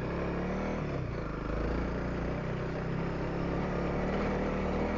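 Honda CRF300L's single-cylinder engine running while riding, its note rising and falling a little, heard through a helmet intercom microphone with wind and road rumble.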